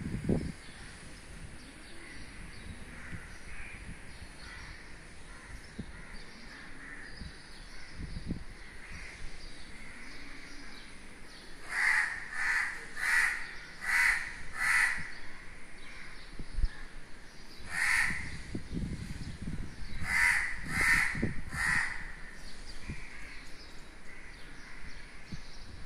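A bird giving harsh, repeated calls: a run of five about two-thirds of a second apart, then a single call, then three more. Under them is faint background chirping.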